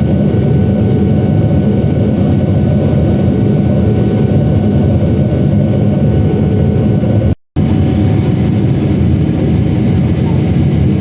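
Steady jet engine and airflow noise of a Boeing 777-300ER heard from the passenger cabin, with a faint steady whine over it. The sound cuts out for an instant about seven seconds in.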